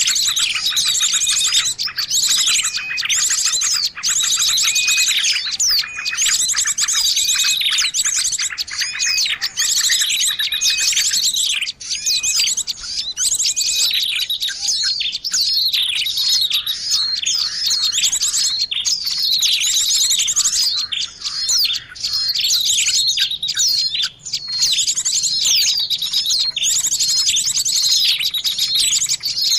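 Dense chorus of many small songbirds chirping and trilling over one another without pause, a layered bird-lure call for attracting small birds.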